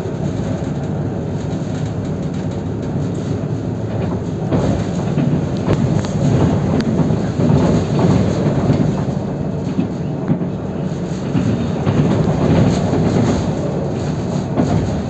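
Train running on the rails: a steady rumble with scattered sharp clicks from the wheels on the track.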